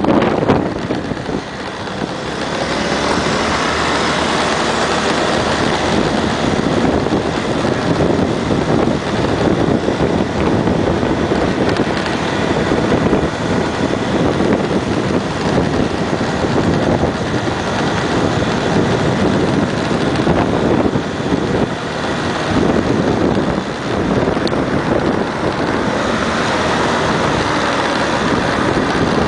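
Small motorbike running steadily while being ridden, with wind rushing over the microphone.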